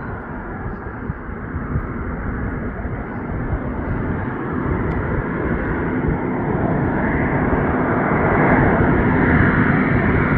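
Fixed-wing airplane passing, its engine noise growing steadily louder over several seconds and peaking near the end.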